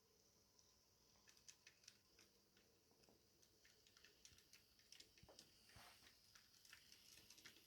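Near silence, with faint scattered clicks that come more often in the second half and a faint steady high hiss.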